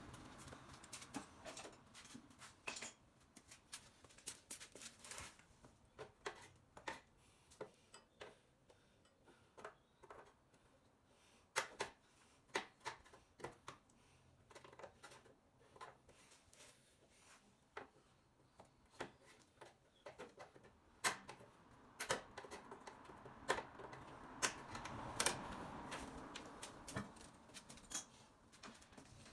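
Scattered, irregular clicks and light knocks of hand tools and exhaust parts being handled while a slip-on muffler is fitted to a motorcycle. A faint rushing noise swells for a few seconds near the end.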